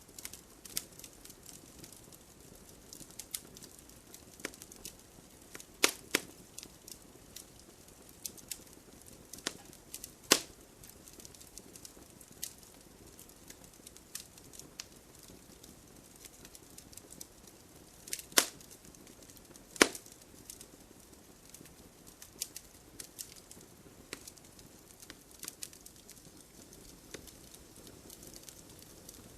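Wood fire crackling in a fireplace: irregular sharp snaps and pops from the burning logs over a faint soft hiss, with a few louder pops about six, ten, eighteen and twenty seconds in.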